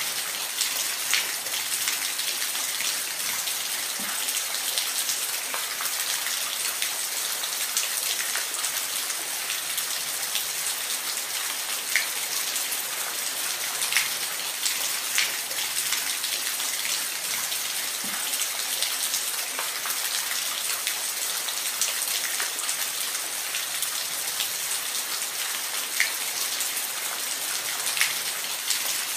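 Steady hiss of falling water, with scattered sharp drops and splashes ticking through it.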